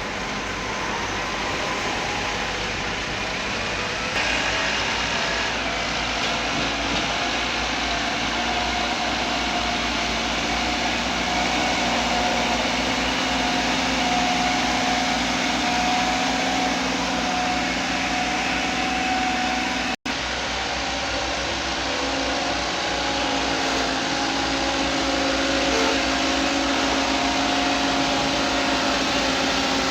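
Heavy vehicle engine running steadily under a constant wash of mechanical noise, its pitch shifting a little as it goes. The sound cuts out for an instant about two-thirds of the way through.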